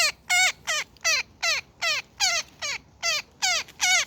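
A woodpecker trapped in a net giving a rapid series of short distress calls, each dropping in pitch, about two or three a second. These are the agitated calls of a caught bird, which the rescuer reads as angry and calling for other birds.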